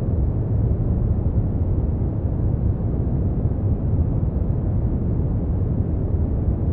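Steady brown noise: a constant deep, rumbling hiss weighted toward the bass, with no changes or events.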